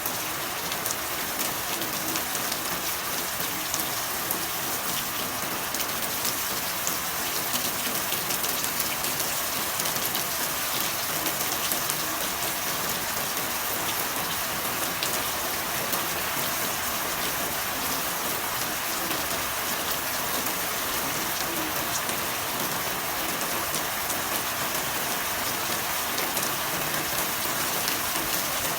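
Steady rainfall: an even hiss with many individual drops ticking through it.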